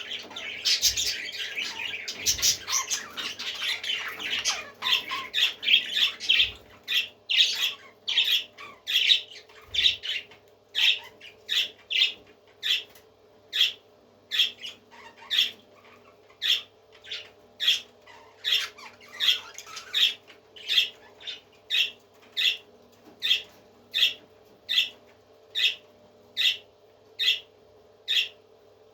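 Parrot squawking: a busy tangle of overlapping calls for the first few seconds, then one short, shrill call repeated at an even pace, about three every two seconds. A faint steady hum lies underneath.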